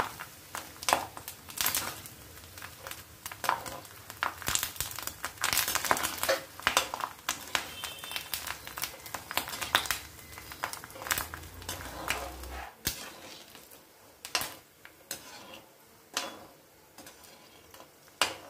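Sago pearls deep-frying in hot oil in a kadhai, crackling with many sharp pops, while a perforated metal skimmer stirs and scoops them against the pan. The crackling thins out in the second half; it lasts only until the pearls are fried through.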